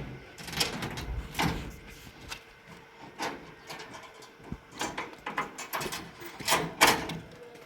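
Irregular knocks, scrapes and rattles of things being handled or moved, about half a dozen sharp ones spread unevenly, the loudest pair near the end.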